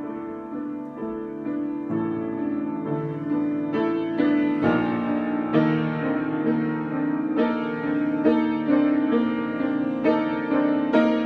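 Solo piano improvisation: chords and notes struck in a steady flow, each ringing on into the next.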